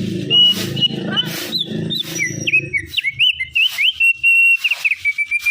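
Opior, a white-eye songbird, singing a varied string of clear whistled notes, some held steady and some bending quickly up and down. A low hum sounds under the first half.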